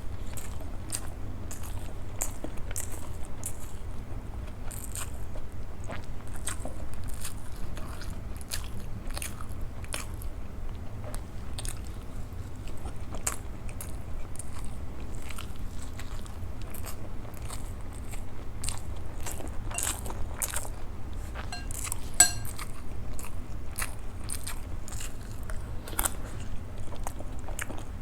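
Close-up eating of soft idli dipped in sambhar and chutney: a constant run of sharp, wet mouth clicks and smacks as she chews, with one louder click about 22 seconds in. A steady low hum lies underneath.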